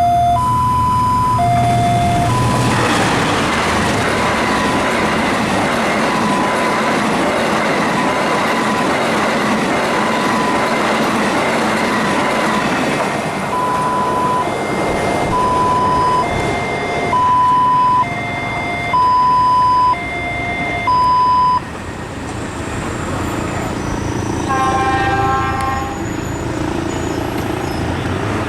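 Railway level-crossing alarm ringing an alternating two-note electronic chime while a long train passes, its wheels and cars making a loud rumbling clatter. The train noise eases after about twenty seconds, and near the end there is a short horn blast.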